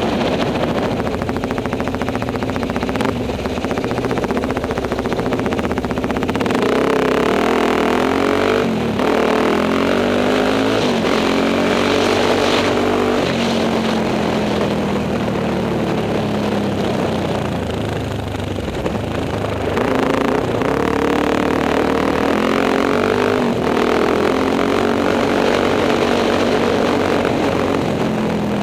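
Enduro motorcycle engine running under load, its revs climbing and falling again and again as the rider accelerates, shifts and backs off.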